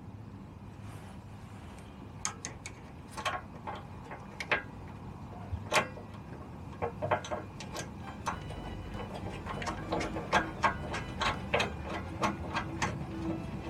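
Irregular small clicks and taps of hand tools and metal parts while a turn-signal indicator is fitted to a moped. The clicks come more often in the second half.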